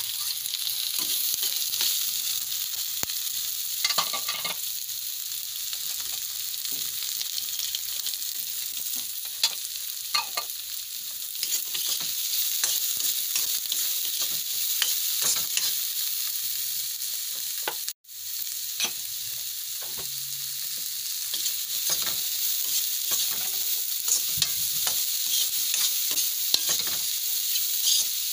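Diced vegetables sizzling in oil in a nonstick wok while being stir-fried, with frequent scrapes and clicks of the spatula against the pan. The sound cuts out for an instant about two-thirds of the way through.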